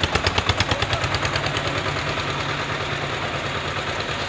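Tractor diesel engines running with a rapid chugging exhaust beat, sharpest and loudest for the first second or so, then settling into a steady run.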